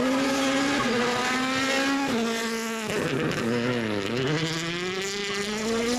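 World Rally Car's turbocharged four-cylinder engine at high revs. The pitch holds, drops in a few steps from about two seconds in as the car slows and changes down, then climbs steadily as it accelerates again.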